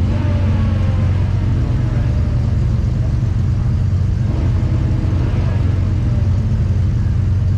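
Race truck engines running, a steady loud low rumble with the pitch rising and falling now and then as the engines rev.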